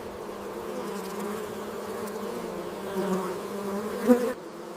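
Honeybees buzzing in a steady, wavering hum that swells briefly a couple of times, with a sudden change in the hum near the end.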